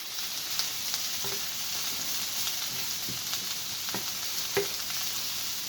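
Sliced onions and bell peppers sizzling in a frying pan, a steady hiss, with a few light clicks of a utensil stirring them.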